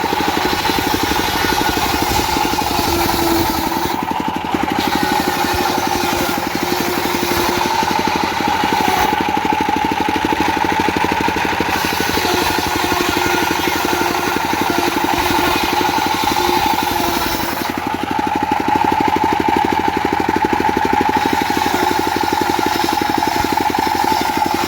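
Diesel engine running steadily to drive a homemade circular saw, with a steady whine from the spinning rig and a high hiss that drops away briefly three times.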